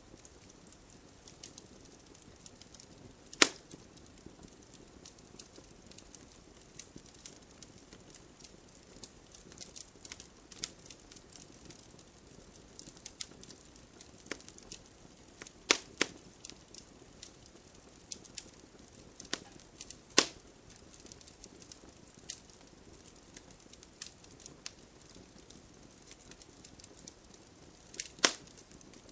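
Wood fire crackling with frequent small clicks and a handful of loud, sharp pops, over a steady hiss of rain.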